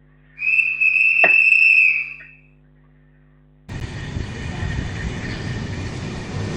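A single steady whistle blast lasting about two seconds, the departure signal. After a short silence, the rumble of a train running starts abruptly.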